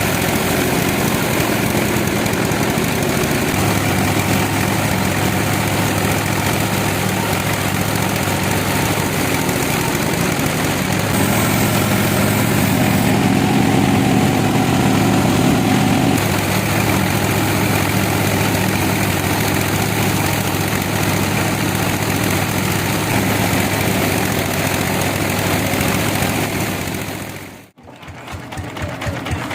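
Sawmill engine running steadily, louder for several seconds about halfway through. Near the end the sound drops out abruptly and a fast, even pulsing takes over.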